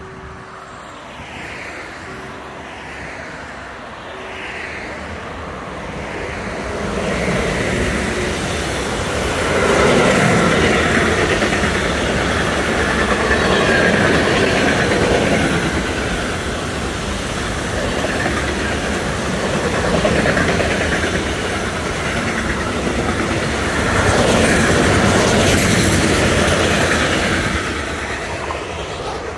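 Long container freight train passing close by, its wagon wheels running loudly over the rails. It grows louder as it approaches about six seconds in, stays loud with several swells for about twenty seconds as the wagons go by, then eases near the end.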